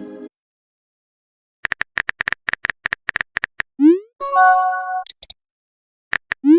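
Chat-app message sound effects: a quick run of keyboard typing clicks, a short rising swoosh as a message is sent, then a brief chime of an incoming message with a couple of short beeps. The typing clicks start again near the end.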